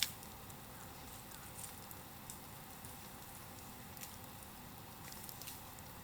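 Bonfire crackling faintly over a steady low hiss, with scattered pops and one sharper crack at the very start.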